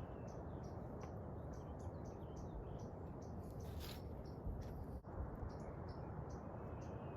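A small animal or bird chirping, short high chirps repeated about twice a second, over a steady rushing background noise.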